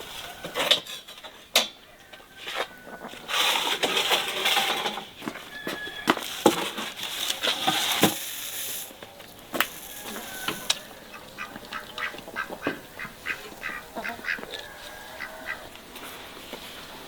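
Ducks quacking in short repeated calls, among scattered knocks and clicks.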